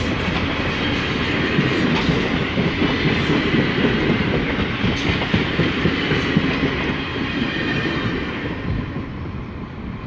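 Passenger cars of a passing train, their steel wheels running on the rails, with a few clicks over the rail joints. The sound fades over the last couple of seconds as the rear car goes by and the train moves away.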